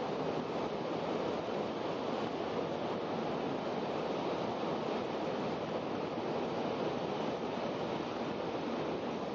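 Steady rushing running noise heard inside the passenger cabin of an N700-series Shinkansen train in motion.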